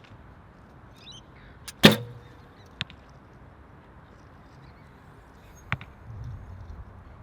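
Recurve bow shot: a loud, sharp release of the string about two seconds in, followed about a second later by a fainter knock, typical of the arrow striking the target, and another short click near the end. Steady wind noise underneath.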